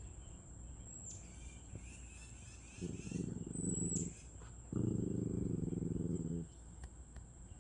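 Small dogs growling in a play fight, a Yorkshire terrier and a Havanese mouth-wrestling: two low growls, about three seconds in and again a second later, the second one longer.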